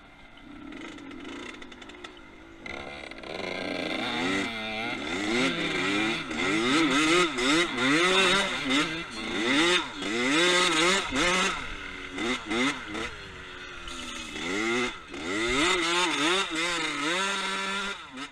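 Two-stroke dirt bike engine revving hard and easing off over and over, its pitch rising and falling about once a second, louder from a few seconds in.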